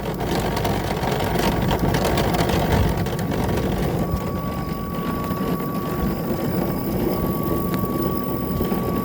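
Toro PowerMax E24 electric two-stage snowblower running on low speed, its auger and impeller turning with a rough clinking, clonking noise that the owner traces to the inside impeller. A steady high-pitched tone comes in about four seconds in.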